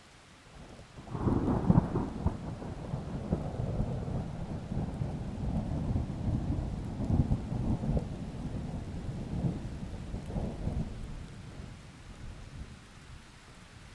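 A long roll of thunder that breaks sharply about a second in, rumbles on with several swells and fades out after about ten seconds, over steady falling rain.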